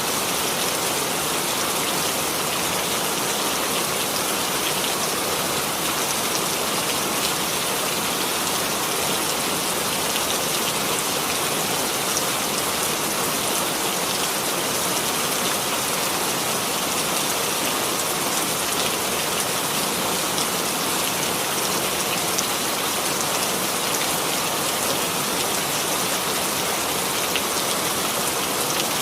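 Steady rainfall, a dense even patter of drops on a surface, without a break or change.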